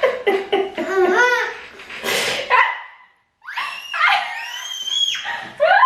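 A person laughing in quick bursts with a breathy outburst. After a sudden brief gap, it gives way to high, drawn-out whining sounds that glide up and down in pitch.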